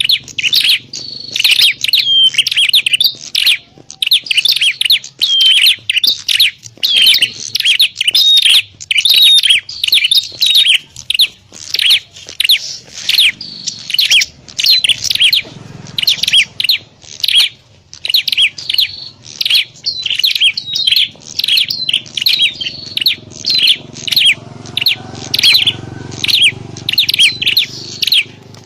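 Prenjak (prinias) calling, sharp chirps following one another in quick, unbroken succession with several birds overlapping: the noisy fighting calls used as a lure to draw in wild prenjak.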